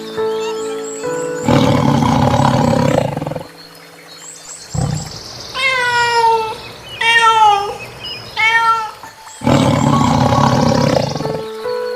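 Two long, loud big-cat roars of about two seconds each, with three shorter, higher-pitched calls between them, over background music.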